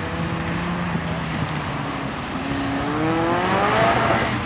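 Sports car engine on an autocross run: it holds a steady pitch at first, then revs higher from about halfway through as the car accelerates between the cones. It is loudest near the end.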